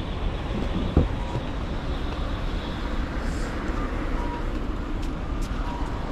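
Street traffic noise, a steady rumble and hiss of passing road vehicles, with faint short beeps repeating about once a second. There is a single brief thump about a second in.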